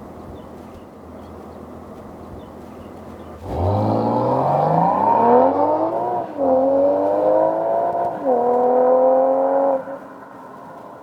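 BMW B48 turbocharged four-cylinder engine through a Stone Exhaust valved cat-back and catalytic downpipe, idling, then revved sharply about three and a half seconds in. It is held up in three pulls with two brief dips, then drops back to idle near the end.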